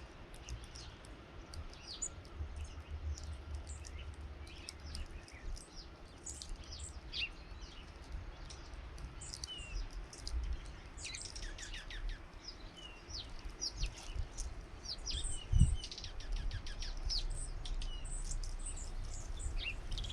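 Small songbirds chirping over and over, with many short, high, quick falling chirps, busier in the second half. A steady low rumble runs beneath them, and a single low thump comes about three-quarters of the way through.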